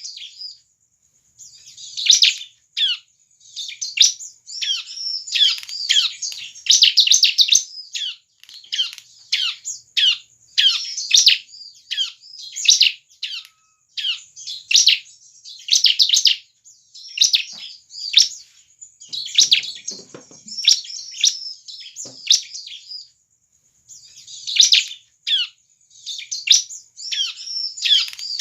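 A ciblek (bar-winged prinia) singing vigorously (gacor): rapid strings of sharp, high chirps that each drop in pitch, delivered in bursts separated by brief pauses.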